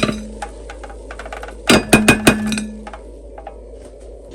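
Kitchenware clinking and knocking as the freshly air-fried chicken fries are handled: a few sharp clinks with short ringing, then a quick cluster of them about two seconds in.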